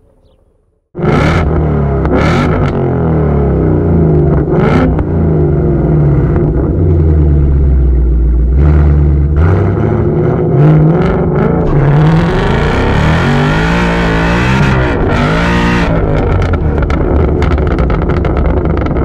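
Hennessey-tuned 808 hp Ford Mustang GT's supercharged V8 heard from inside the cabin, starting abruptly about a second in. It is revved hard, then accelerates from a standstill, its pitch rising and falling repeatedly near the middle of the run.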